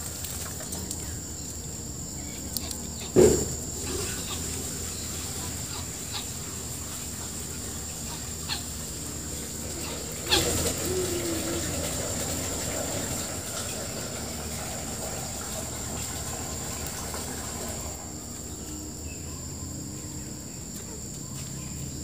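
Faint background with a steady high whine, broken by two short knocks about three and ten seconds in; the second knock is followed by a brief low, clucking bird call.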